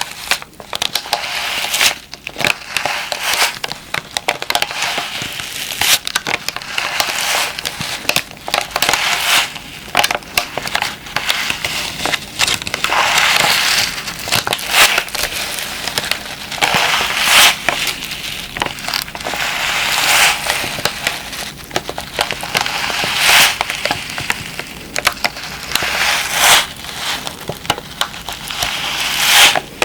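A plastic moisture-absorber pack being squeezed and crushed, giving a continuous crinkling crackle that swells louder every couple of seconds.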